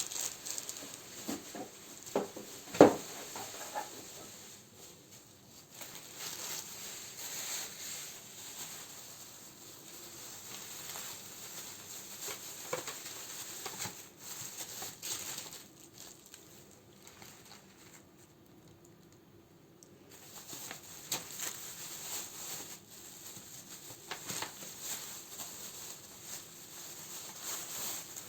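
Plastic wrapping and paper crinkling and rustling as candles are handled and sorted, with small clicks throughout and one sharp knock about three seconds in. The handling eases off to quieter rustling about two-thirds of the way through.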